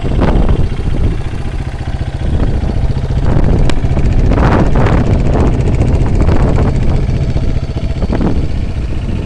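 Honda CRF230F dirt bike's single-cylinder four-stroke engine idling steadily, with gusts of wind buffeting the microphone.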